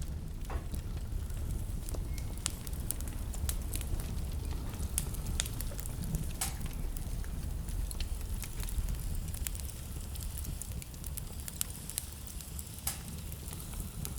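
Wood fire crackling in a fireplace, with frequent sharp pops scattered irregularly, over a steady low rumble of blizzard wind.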